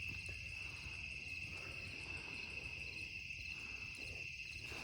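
Crickets chirping in a steady, high-pitched chorus, with a faint low rumble underneath.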